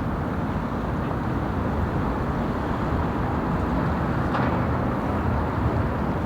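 City street ambience at night: a steady rumble of distant traffic.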